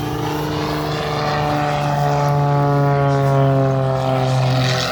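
Aerobatic propeller airplane's engine droning steadily overhead, its pitch slowly falling through the middle, then changing abruptly right at the end.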